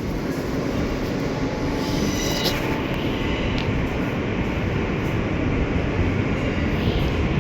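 New York City subway train running along the track, heard from inside the car: a steady rumble of wheels and motors, with a brief high wheel squeal about two seconds in.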